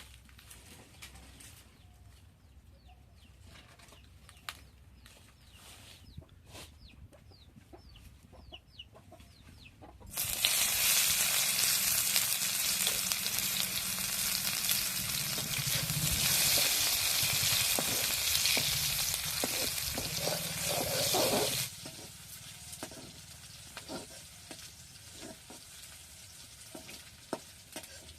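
Food frying in hot oil, a loud sizzle that starts suddenly about ten seconds in and cuts off about eleven seconds later. Before and after it come quieter scattered clicks and scrapes.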